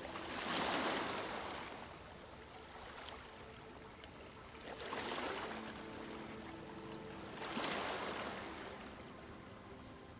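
Sea waves washing ashore: three swells of surf a few seconds apart, each building and then fading away.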